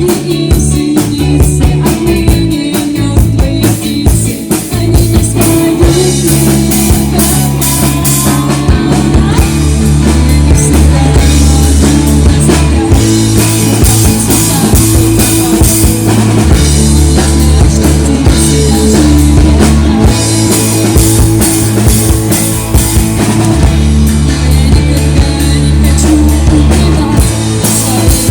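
Live rock band playing a song, with a busy drum kit and sustained bass notes carrying it.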